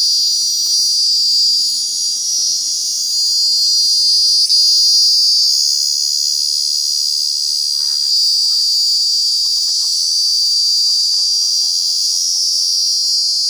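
Cicadas singing: a loud, steady, high-pitched shrill drone that holds without a break, swelling and easing slightly in strength.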